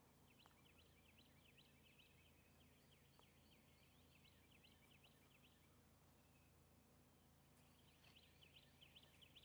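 Near silence: faint, rapid bird chirping in two spells, over a low steady hum.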